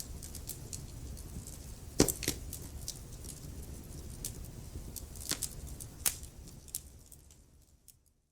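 Wood fire crackling in a fireplace: irregular sharp pops and snaps over a low rumble of burning logs, the loudest pop about two seconds in. The sound fades out to silence near the end.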